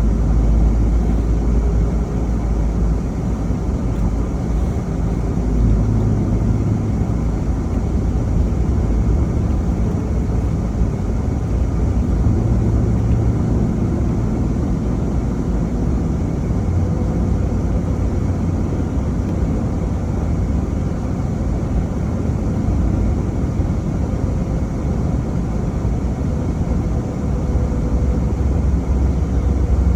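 Car driving: steady low engine and road rumble, with a faint steady whine joining in about halfway through.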